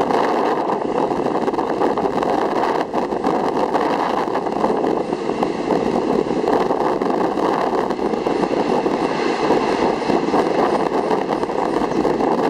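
Steady running noise of a moving passenger train, heard from aboard at an open carriage window: wheels rolling on the rails, with the carriage rattling and rushing air.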